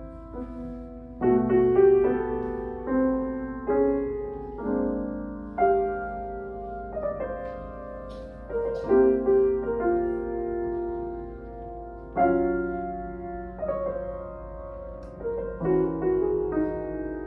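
Solo piano playing a slow, gentle piece: chords struck every second or two, each left to ring and fade before the next.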